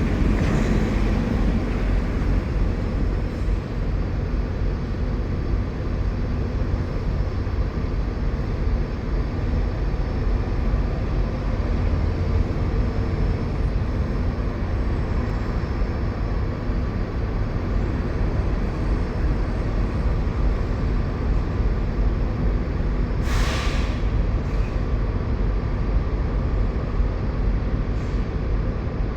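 Steady drone of idling diesel truck engines, with a short hiss about 23 seconds in.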